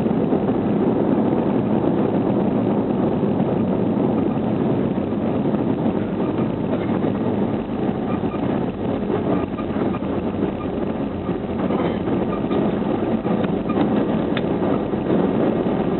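Airbus A320 engine and airflow noise heard inside the passenger cabin during the landing: a steady loud rush that eases a little about halfway through, with a few faint clicks near the end.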